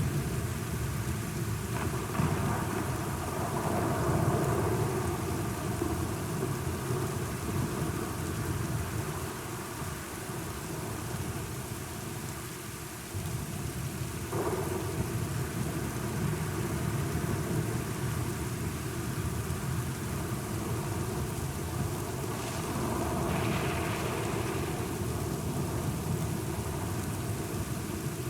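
Steady rain falling in a thunderstorm, with low rolls of thunder swelling about two seconds in and again near the end.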